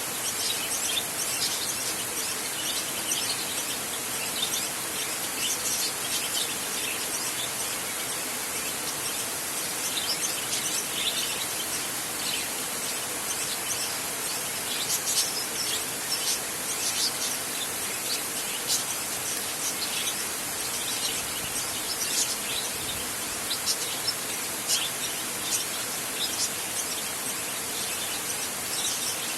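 Steady rain on a tin roof, an even hiss, with many short, high, sharp sounds scattered irregularly over it.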